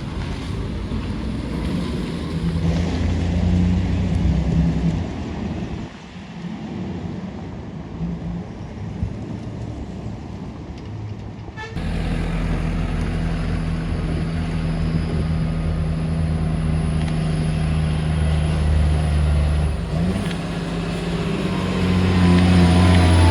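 Heavy truck diesel engines running under load on a steep hill, passing close by. About halfway through the sound changes abruptly to another truck engine running steadily and loudly.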